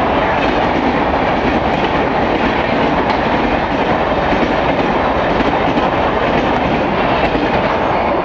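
Mail express train running through a station at speed: a loud, steady rush of wheels on rails, with a clickety-clack from the carriages going by.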